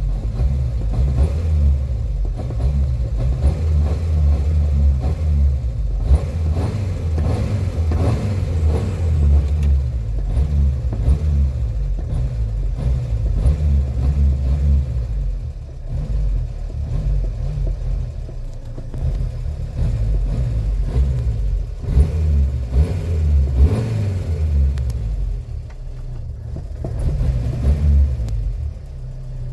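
Renault 4 engine, flooded, running rough while being revved on the gas pedal, its revs rising and falling several times.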